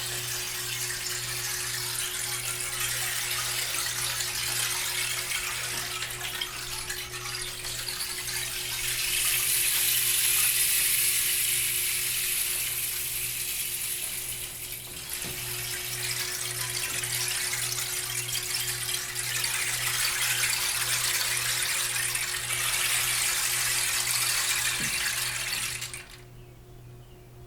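A rushing, water-like wash of sound that swells and eases in slow waves over a steady low hum, then stops abruptly near the end.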